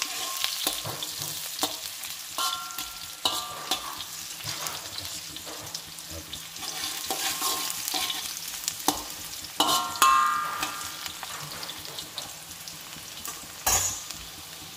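Sliced onion and garlic sizzling in hot olive oil in a steel wok, with a metal spatula scraping and clanking against the wok as it stirs. Several sharp ringing clanks stand out, the loudest about ten seconds in and another near the end.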